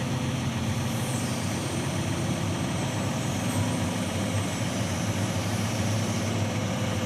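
Forwarder's diesel engine running steadily with a low hum.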